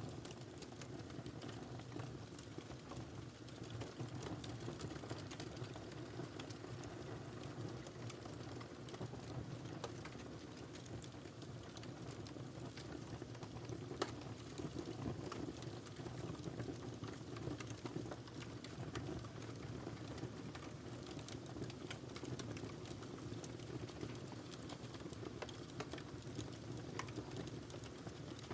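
Wood fire burning in a fireplace: a steady low rumble of flames with frequent small crackles and one sharper pop about fourteen seconds in.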